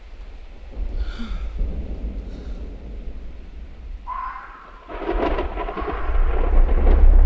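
Thunderstorm: deep rolling thunder with rain, the rumble growing louder in the last seconds.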